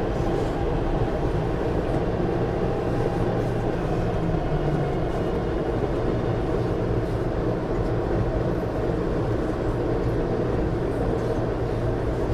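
MTR Tuen Ma line train running, a steady rumble of wheels on rail and traction motor hum at an even level.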